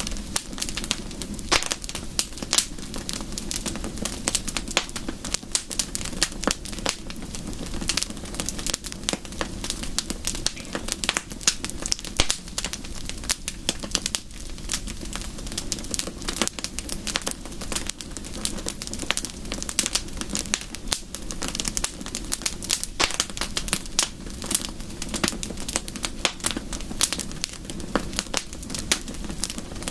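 Wood fire crackling: many irregular sharp pops and snaps, some louder than others, over a steady low hiss.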